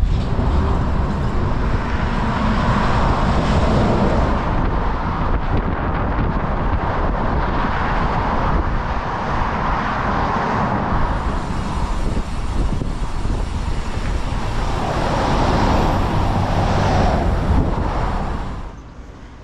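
Steady rushing noise of road traffic, swelling and easing as vehicles pass, then dropping away sharply near the end.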